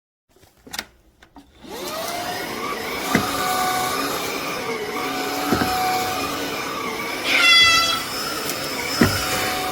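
A few clicks, then a Shark cordless stick vacuum switches on about a second and a half in and runs steadily. There are occasional knocks and a brief rising whine near the end.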